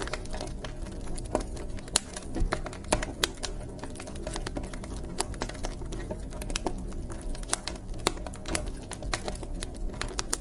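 Wood fire burning in a fireplace, crackling with irregular sharp pops over a low steady rumble of flames.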